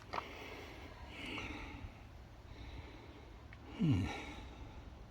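A person breathing, with one short voiced sigh falling in pitch about four seconds in.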